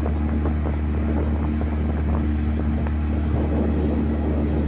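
9.9 hp Mercury outboard motor running at a steady speed, an even drone that holds its pitch.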